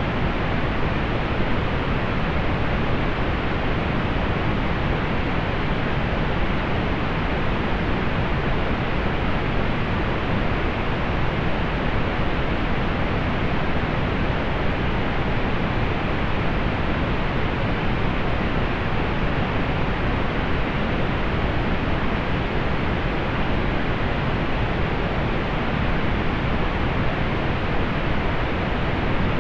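Steady pink noise: an even, unchanging hiss, fuller in the low end and rolled off in the highs.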